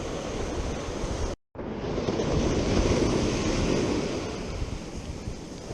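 Ocean surf washing on the beach, with wind on the microphone. The sound cuts out completely for an instant about a second and a half in, then a wave swells and slowly fades.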